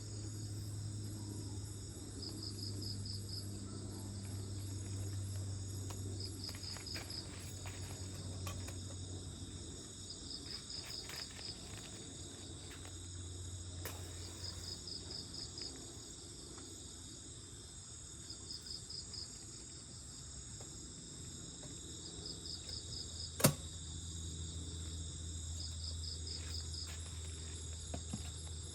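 Forest insects calling: a short, rapid cricket-like trill repeats about every two seconds over a steady high insect drone, with a low steady hum underneath. One sharp click stands out about two-thirds of the way through.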